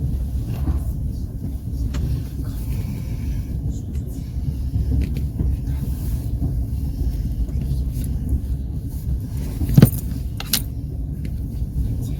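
Steady low rumble of a moving passenger train's wheels on the rails, heard from aboard the coach, with a sharp clack about ten seconds in and a lighter one just after.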